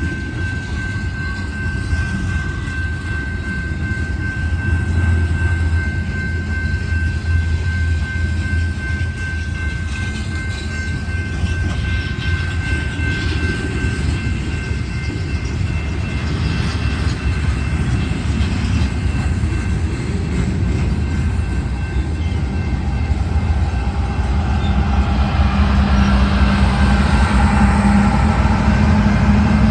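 Loaded coal train cars rolling past with a steady rumble and clatter of wheels on rail, a thin high squeal held through the first half. Near the end a lower, engine-like tone grows louder.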